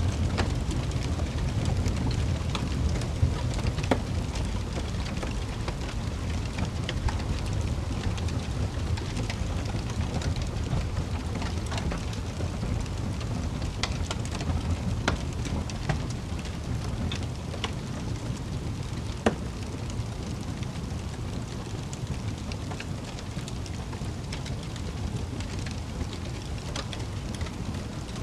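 Wood fire burning in a fireplace: a steady low rumble with scattered crackles and sharp pops.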